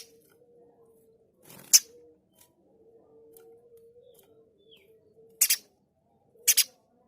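Spiderhunter (pijantung gunung) giving short, harsh, loud calls: one near the start, another a couple of seconds in, then two quick double calls near the end. A faint steady hum runs underneath.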